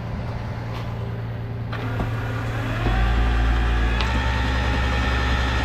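Rollback tow truck's engine idling, then speeding up about three seconds in as the hydraulic bed is worked, with a steady hydraulic whine over the engine. A single click near four seconds in.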